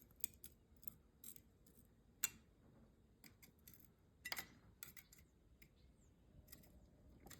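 Faint, scattered scraping clicks of a hand scraper working old gasket material off the oil pan rail of a Chevy 350 engine block, with a slightly sharper scrape about two seconds in and another around four seconds in.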